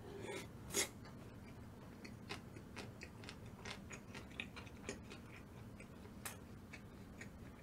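Faint close-mic chewing of a mouthful of chungmu gimbap: scattered soft mouth clicks and small crunches, with one louder click about a second in.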